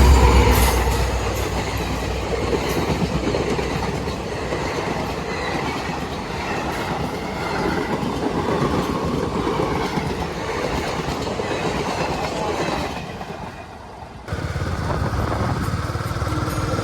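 Wind and road noise of a Royal Enfield Meteor 350 motorcycle riding at speed, heard on the rider's microphone, a steady rushing sound. It drops away briefly near the end and comes back abruptly.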